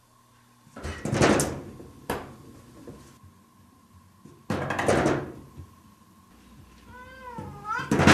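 A cat knocking at a door: the door bangs and rattles in loud bursts about a second long, twice. Near the end the cat gives one meow, and the door bangs again straight after it.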